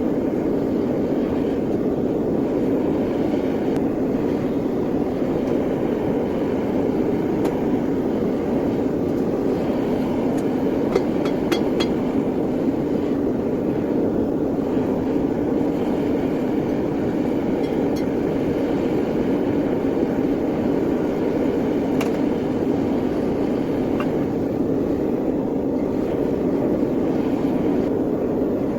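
Steady roar of a gas-fired metal-melting furnace burner running, with a few light metallic clicks.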